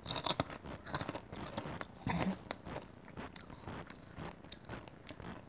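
Caramel popcorn being crunched and chewed close to the microphone: a run of irregular crisp cracks and crackles.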